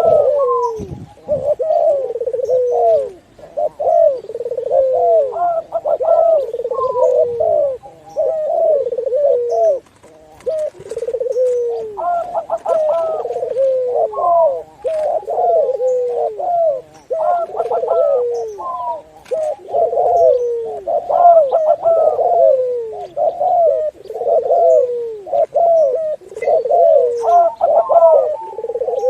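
Several doves cooing over one another without pause, a mix of zebra dove (perkutut), Barbary dove (puter) and spotted dove (tekukur), giving a dense run of overlapping falling coos.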